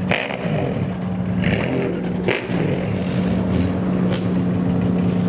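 A kaido racer-style custom car's engine revving up over the first second, then held at a steady pitch, with a few short knocks in between.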